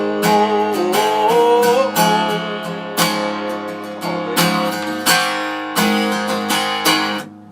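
Acoustic guitar strumming the closing chords of a country song played live. The strums drop out briefly near the end.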